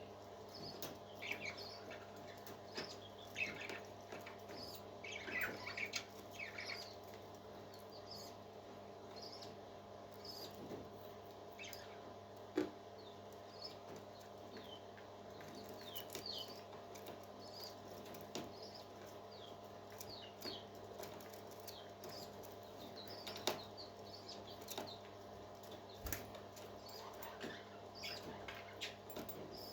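Baby parrot chirping faintly and repeatedly, in short high peeps that fall in pitch, over a steady hum and a few light clicks.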